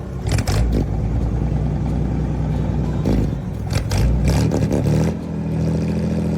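A car engine running and revved several times, its note rising and falling, then settling to a steady run near the end.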